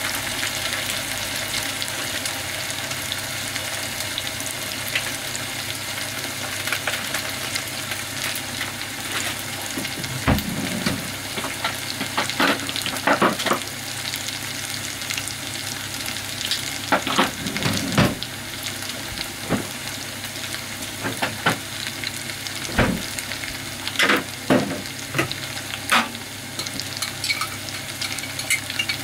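Food sizzling and frying in a pot while it is stirred. From about ten seconds in, a utensil knocks against the pot now and then.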